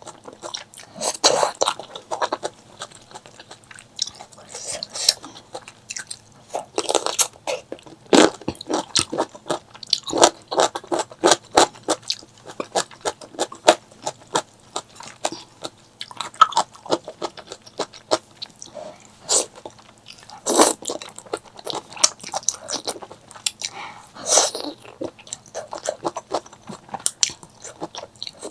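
Close-miked eating sounds: food being chewed and crunched, with irregular sharp crackles and wet mouth clicks.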